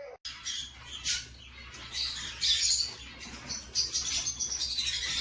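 Small caged pet birds chirping and twittering in a dense, continuous run of high calls.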